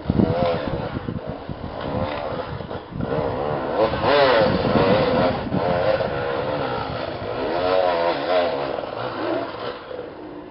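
Dirt bike engines revving hard, their pitch rising and falling over and over as the throttle is worked on and off.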